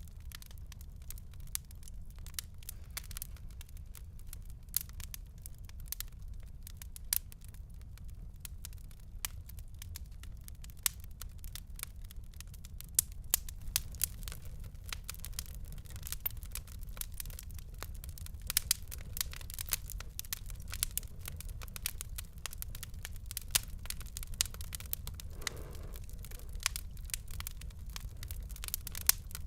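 Fireplace fire crackling: irregular sharp pops and snaps, a few of them louder, over a low steady rumble of the flames.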